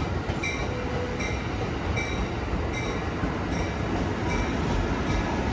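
Amtrak Capitol Corridor passenger train rolling slowly into a station, its wheels rumbling on the rails, with the train's bell striking steadily about every 0.8 s, as is rung when a train arrives at a station.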